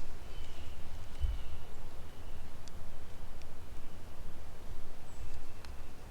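Woodland ambience: a steady low rumble with faint high, thin bird calls, a few short whistles in the first couple of seconds.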